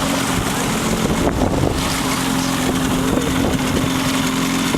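A boat's motor running steadily with an even hum, under wind and water noise.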